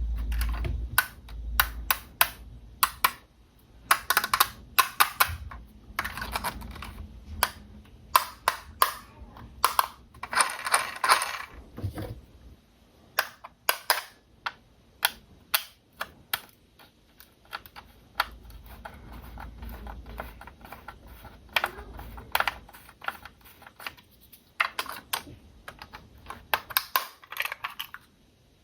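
Hands handling hard plastic parts of a toy RC car and its packaging, giving many irregular clicks and taps. A stretch of rustling comes about ten to twelve seconds in.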